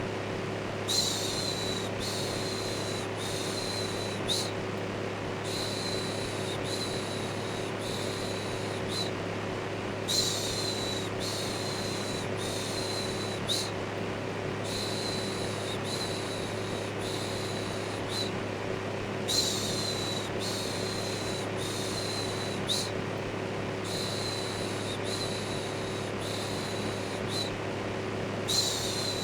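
Electric fan running with a steady hum, overlaid with a looped human "shhh" shushing: a louder shush followed by a run of short ones about a second apart, the pattern repeating about every nine seconds.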